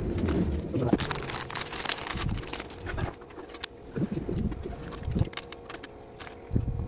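Doves cooing low in bouts, with scattered sharp clicks and rustles.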